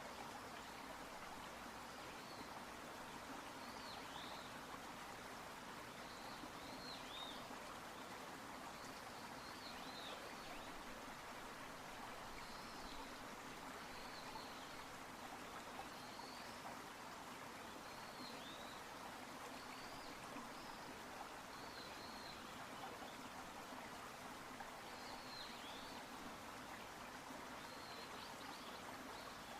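A stream flowing with a steady rush of water, while a small bird calls short high chirps every second or two.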